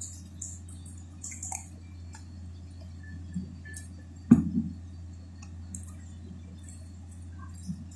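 Wet chewing and mouth clicks of someone eating chicken, scattered small ticks throughout, with one sharp knock about four seconds in. A low steady hum runs underneath.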